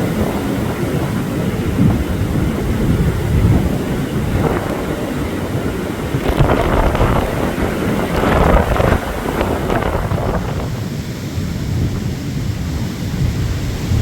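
Strong blizzard wind gusting and buffeting the microphone, with the loudest surges between about six and nine seconds in.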